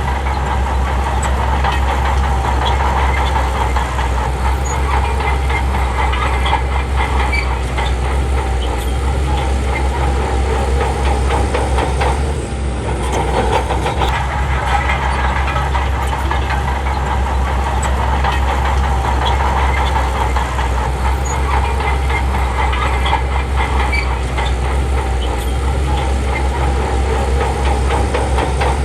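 Heavy diesel earth-moving machinery running steadily, with a constant low engine drone and a busy clatter over it. The sound dips briefly about twelve seconds in.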